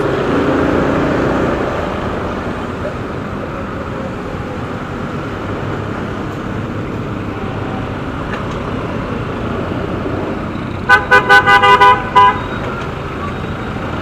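Vehicle horn honked in a quick series of about six or seven short toots, starting about eleven seconds in, over a steady hum of road traffic.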